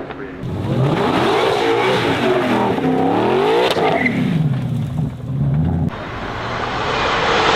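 High-performance car engines revving hard, their pitch climbing and dropping again and again through acceleration and gear changes.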